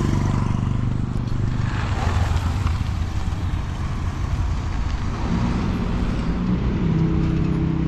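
Road traffic: motor vehicle engines running and passing close by with steady road noise. Another engine note comes in about five seconds in.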